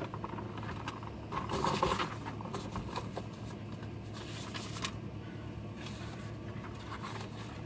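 Vehicle engine idling while stopped, heard from inside the cab as a steady low hum, with a brief rustle of handling noise about one and a half seconds in and a few faint clicks.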